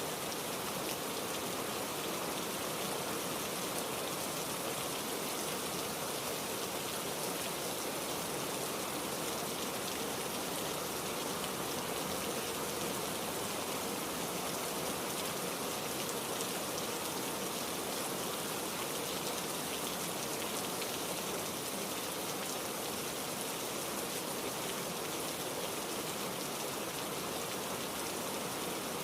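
Heavy rain falling steadily, an even, dense hiss of drops with no thunder or gusts.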